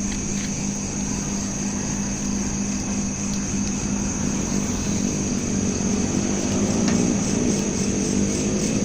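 Crickets chirping steadily over a low engine hum. From about halfway a motor vehicle draws nearer, its engine note rising and growing a little louder.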